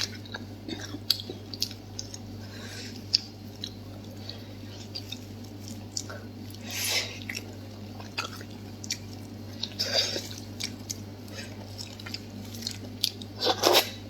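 Close-miked chewing of soft, gelatinous food: wet smacking and squelching mouth sounds with scattered short clicks, and a few louder bursts a few seconds apart.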